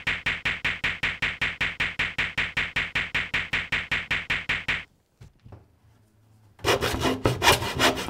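An alarm clock goes off in rapid pulses, about five or six a second, and stops after nearly five seconds. Near the end, a hand saw cuts a wooden board in quick back-and-forth strokes.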